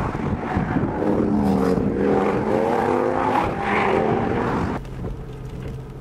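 Car running along the road, with engine and road noise and a wavering engine note. About five seconds in the noise drops suddenly to a quieter steady hum.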